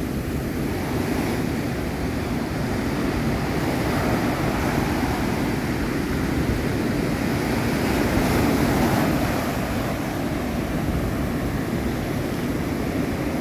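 Ocean surf washing in continuously, with wind buffeting the microphone; the wash swells louder once about eight seconds in.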